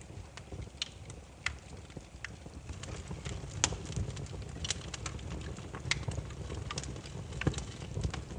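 Burning firewood crackling: irregular sharp pops and snaps over a low, steady rumble of the fire.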